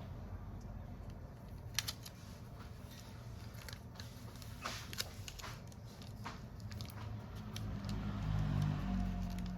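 A few light clicks and taps of small tools and parts being handled on a repair bench, over a steady low hum; a louder low hum swells near the end.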